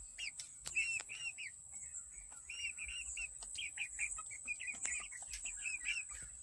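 Birds chirping: runs of short, high chirps repeated in quick succession, over a steady high-pitched whine.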